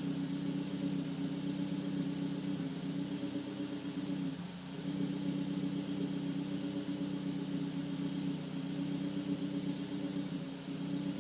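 Car engine idling steadily, with brief dips in level about four seconds in and again near the end.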